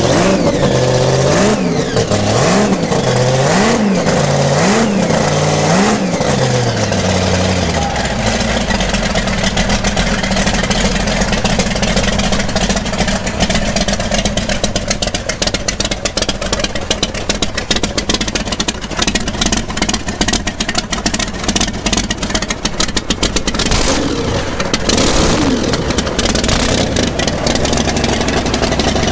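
Loud drag car engine revved in quick blips, about one a second, for the first several seconds, then settling into a rough, lumpy idle with irregular popping from the exhaust.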